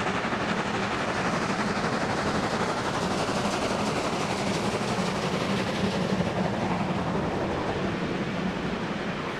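Steady, fairly loud rushing rumble with a constant low hum underneath, easing off slightly near the end.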